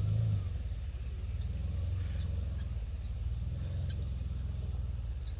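Can-Am off-road buggy's engine running, swelling briefly at the start and then settling into a steady low drone.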